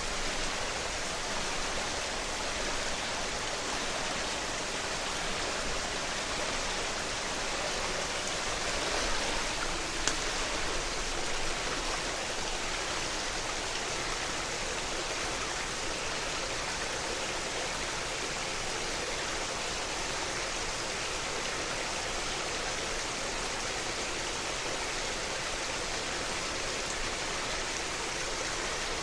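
Mountain headwater stream flowing steadily, an even water noise, with one brief click about ten seconds in.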